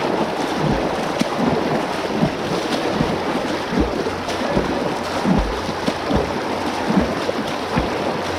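Floodwater sloshing and splashing as people wade through it pushing bikes, a steady rush of moving water with irregular low thumps of the wading strides.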